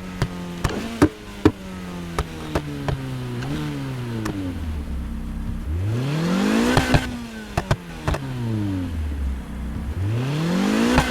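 2006 Lotus Exige S engine being revved: the revs die slowly over the first few seconds with a small blip, then climb quickly and fall away twice, the second rise coming near the end. Short sharp cracks come through repeatedly as it runs.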